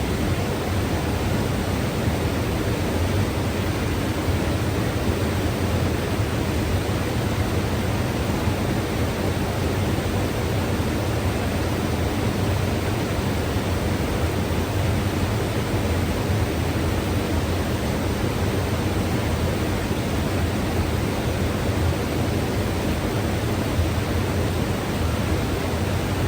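Mountain river rushing and churning over rocks: a steady, full rush of water, heaviest in the low range, unchanging throughout.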